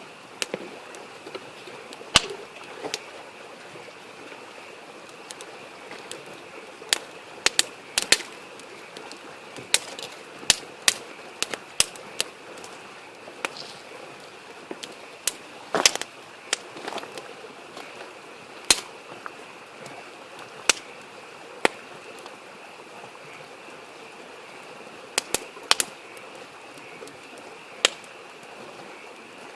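Wood campfire crackling, with irregular sharp pops scattered every second or two. Under it runs the steady murmur of a small stream and a continuous high chorus of frogs.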